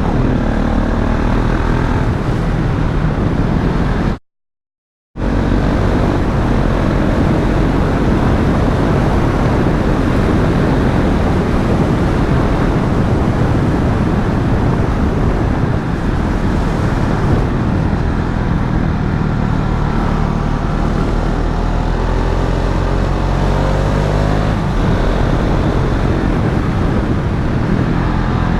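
KTM Duke 690's single-cylinder engine running under way, revs rising and falling through the gears over a steady rush of wind and road noise. The sound cuts out completely for about a second around four seconds in.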